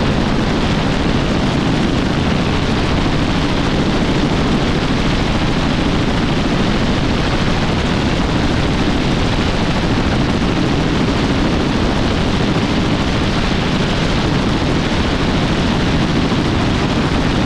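Helicopter in flight: a steady, loud rushing noise from its engine and rotor that holds an even level throughout.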